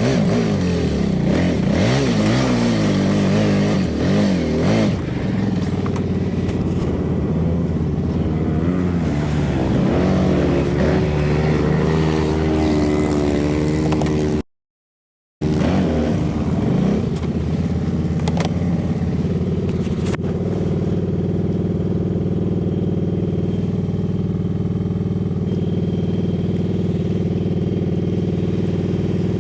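ATV engine running while riding, the engine note rising and falling with the throttle in the first half, then holding steadier. The sound cuts out completely for about a second midway.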